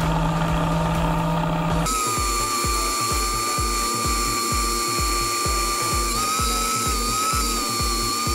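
Angle grinder fitted with a toothed circular saw blade whining at high speed as it shaves a spinning wooden blank on a lathe; its pitch dips briefly a couple of times as it bites under load. Background music with a steady beat comes in about two seconds in.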